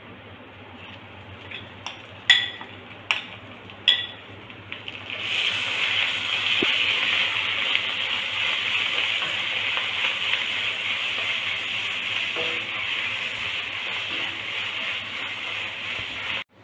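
Curry leaf sambal frying in hot oil in a pan, stirred with a wooden spoon: a few sharp taps, then about five seconds in a loud, steady sizzle starts and keeps on.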